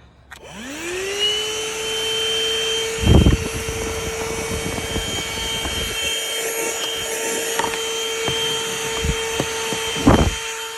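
Corded 12-volt ThisWorx handheld car vacuum switched on: its motor spins up to a steady whine within about a second and keeps running while it sucks up dust, trash and leaves. Two loud knocks stand out, one about three seconds in and one near the end.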